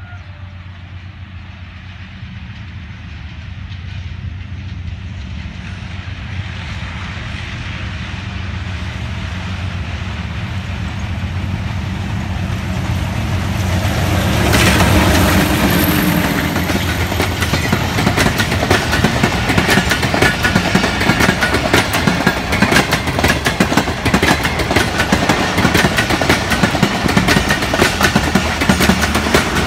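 Diesel locomotive hauling a passenger train as it approaches and passes. The engine's low drone grows steadily louder and is loudest about halfway through as the locomotive goes by. Then the coaches roll past with a rapid clickety-clack of wheels over rail joints.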